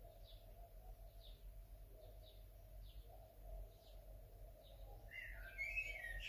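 Faint birdsong: a bird repeats a short, high, falling chirp about once a second, and a brief warbling phrase comes near the end. A low steady hum runs underneath.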